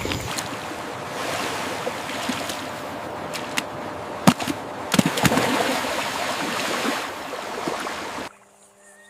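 Rushing, splashing water with a few sharp splash clicks partway through. It cuts off suddenly near the end.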